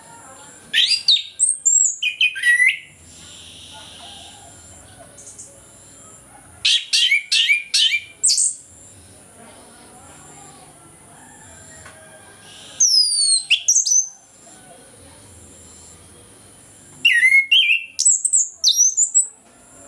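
Orange-headed thrush singing its full song in four loud phrases of rapid, gliding whistled notes, each lasting one to two seconds with a few seconds' pause between them.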